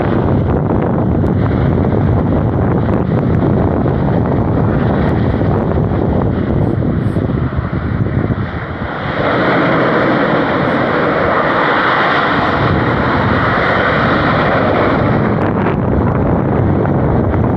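Wind buffeting the microphone, and from about halfway a steady, jet-like rushing noise that holds until near the end: Semeru's crater venting ash continuously.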